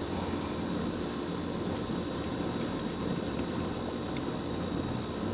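Steady low machinery hum that holds level throughout, with a few faint ticks.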